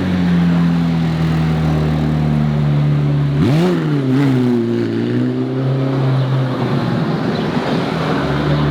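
Car engine running steadily at low revs, with one quick throttle blip about three and a half seconds in that rises and falls back.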